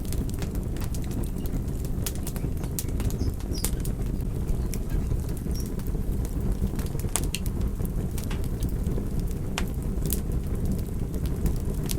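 Wood fire crackling, with frequent irregular sharp pops and snaps over a steady low rumble of burning.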